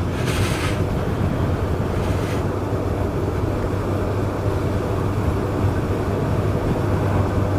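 2018 Suzuki GSX-S1000's inline-four engine running at a steady pace while riding, with wind rushing over the microphone and two brief gusts early on.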